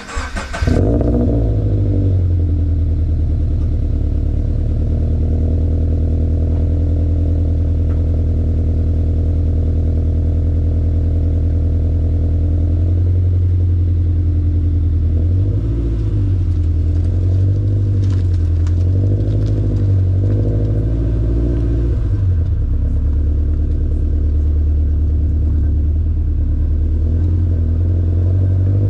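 2019 Subaru BRZ's flat-four boxer engine, fitted with unequal-length headers and a Borla cat-back exhaust, idling steadily through its exhaust. About halfway through, a quick run of five or so light throttle blips makes the pitch rise and fall, then it settles back to idle.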